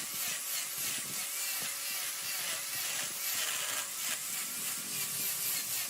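Wood lathe running while a turning tool cuts the spinning wood: a steady scraping hiss of shavings over a faint steady hum.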